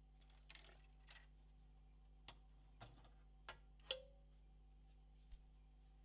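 About seven faint clicks and taps of small console parts being handled during disassembly, the loudest about four seconds in with a brief ring.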